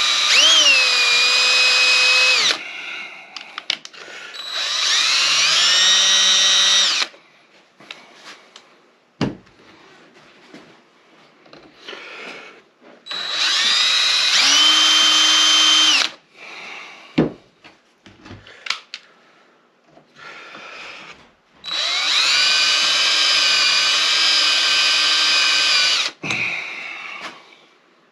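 Electric drill boring out a stripped screw in a Honda CB450 engine, run in four bursts of a few seconds each. Its whine drops in pitch and settles as each burst starts, with small clicks and knocks in between.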